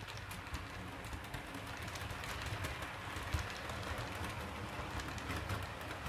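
Model Intercity 125 train running over the layout's track through a crossover, a steady rumble of the motor and wheels with many small clicks from the rail joints and points.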